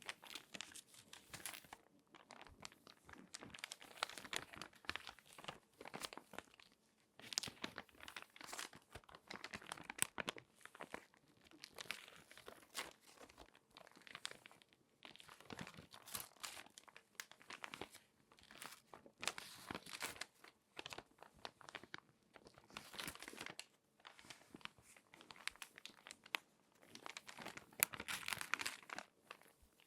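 Crinkly glossy magazine pages being folded and handled by hand: irregular bursts of sharp crinkling and crackling, with short pauses between.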